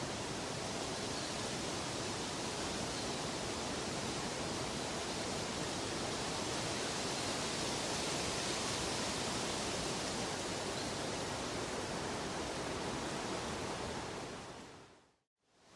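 Steady, even rushing noise. About a second before the end it fades out to a brief silence, then begins fading back in, like the loop point of a repeating noise track.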